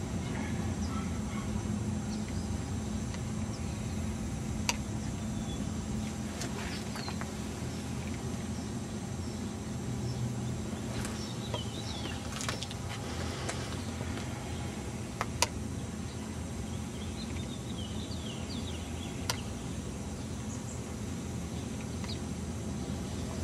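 Yamaha R1's inline-four engine idling steadily through a Two Brothers aftermarket exhaust, with a low, even hum. Birds chirp faintly now and then, and there are a few light clicks.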